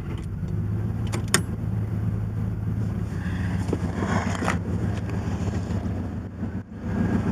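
A vehicle engine running steadily, with two sharp clicks about a second in.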